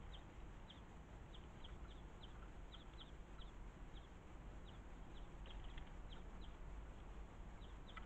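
A small bird chirping over and over, with short, high, slightly falling chirps coming two or three a second at an uneven pace, faint over a steady low rumble.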